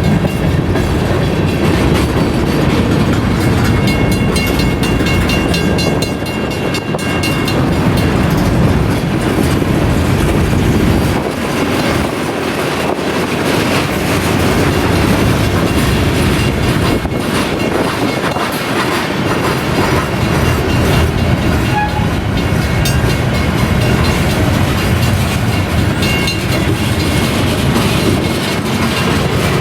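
Freight cars of a BNSF manifest train rolling steadily past, a continuous rumble with the regular clicking of wheels over rail joints.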